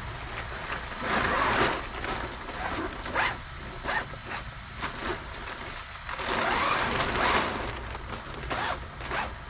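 Brood curtain in a broiler house being let down: a run of irregular noisy pulls, two longer ones of about a second each near the start and past the middle, with shorter ones between, over a steady low hum.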